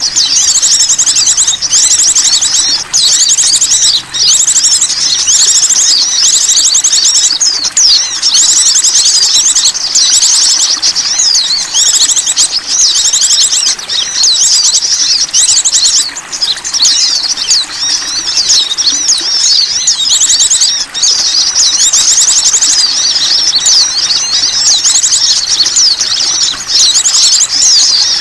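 Bird-lure recording of small wild songbirds: loud, high, rapid trills and chirps crowded over one another with hardly a pause, played to draw small birds in.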